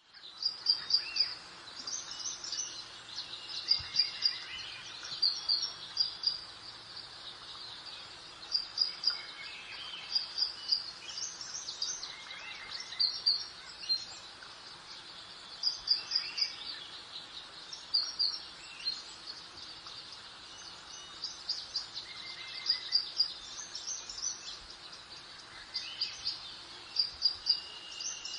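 Songbirds singing: short, high chirping phrases repeat every second or two, with a few longer, lower whistled notes, over a soft, steady background hiss of outdoor ambience.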